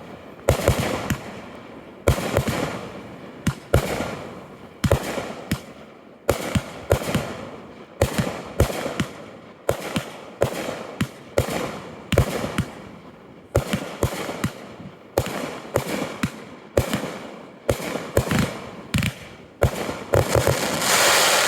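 Aerial fireworks going off in quick succession: sharp bangs about once a second, often in twos or threes, each trailing off in crackle and echo, building to a dense, loud burst of crackling near the end.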